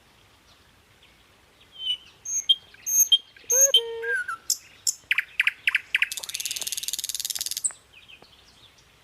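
Birds chirping: a run of short, high chirps starts about two seconds in, followed by a rapid buzzy trill lasting about a second and a half.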